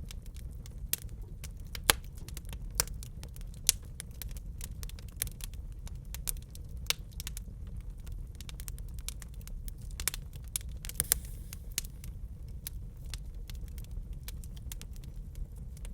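Wood fire in a fireplace crackling, with irregular sharp pops and snaps, the loudest about two seconds in, over a steady low rumble of the flames.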